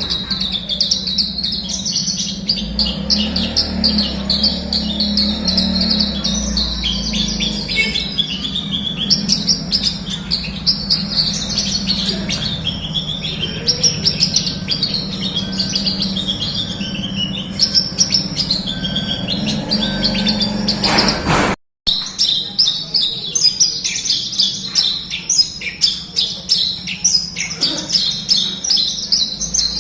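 Javan bush lark (branjangan) singing continuously in full song: a rapid, unbroken run of high chirps and trills over a steady low hum. The song cuts out for an instant about two-thirds of the way through, then carries straight on.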